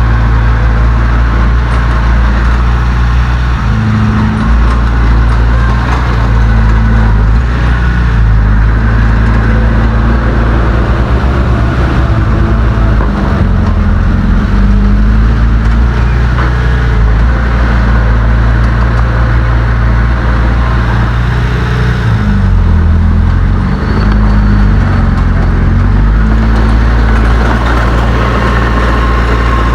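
Heavy diesel engine of earthmoving machinery running loud and close, its pitch dropping and rising several times as the load changes.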